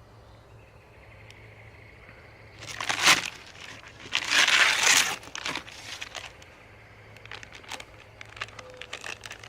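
Paper microwave popcorn bag crinkling and crackling as it is handled, with two loud stretches about three and four to five seconds in, then scattered small crackles.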